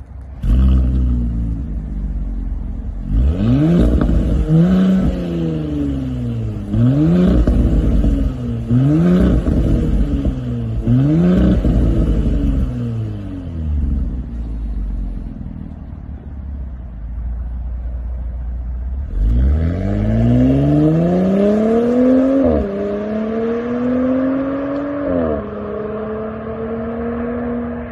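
Audi Q7 3.0-litre V6 through a RES Racing valved cat-back exhaust, idling and then revved five times in quick throttle blips. After a few seconds of idle it pulls away under acceleration, the note climbing and dropping twice at the gear changes.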